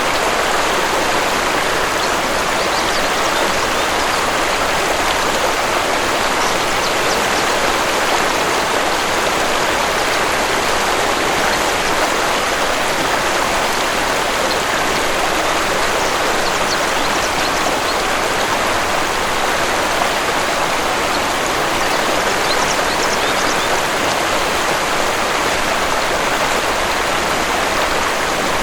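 Waterfall: falling water rushing steadily without a break.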